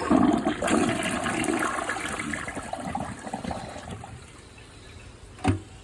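Project Source Pro Flush dual-flush toilet flushing with a dish towel in the bowl: a loud rush of water that fades over about four seconds, followed by a single short knock near the end.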